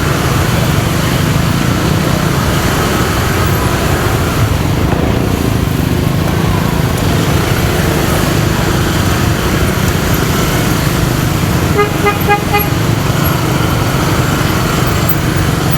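Motorcycle riding in city traffic: steady engine and road rumble with wind on the microphone. About twelve seconds in, a vehicle horn gives a quick series of short toots.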